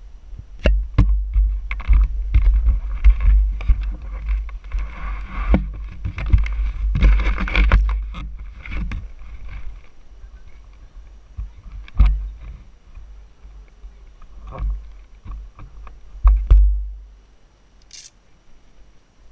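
Heavy low rumbling buffets on a GoPro camera's microphone with many sharp knocks and clicks, dying away about seventeen seconds in, then a brief high hiss; no steady engine note.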